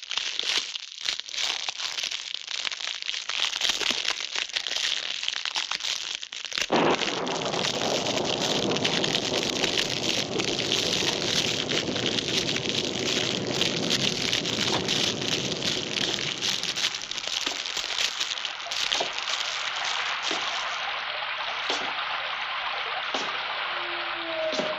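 Recorded rain sound effect: a dense hiss of rain with many small crackles. It turns heavier and fuller about seven seconds in, then eases somewhat after about eighteen seconds.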